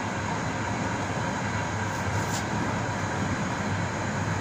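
Passenger train carriage running steadily at speed along the rails, heard from inside the last coach: an even rolling noise of wheels on track, with no breaks.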